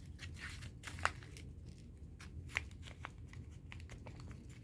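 Paper being handled, crinkling and rustling, with scattered small clicks and two sharper snaps, one about a second in and one about two and a half seconds in.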